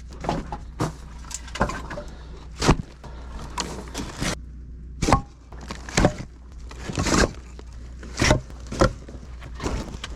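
Split firewood pieces knocking and clattering together as they are loaded by hand into a firewood tote: a dozen or so irregular knocks. A generator runs steadily underneath.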